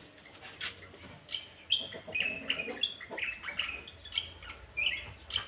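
A songbird singing a quick series of short chirping notes, some sliding down in pitch, with a few sharp clicks among them.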